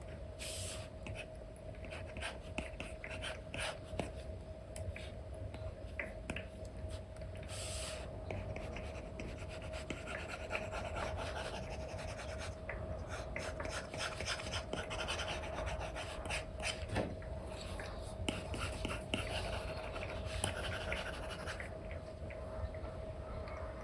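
Apple Pencil 2 with an Elecom nib scratching and rubbing across an iPad's paper-feel screen protector in quick, irregular brush strokes, with occasional light taps, over a faint steady hum.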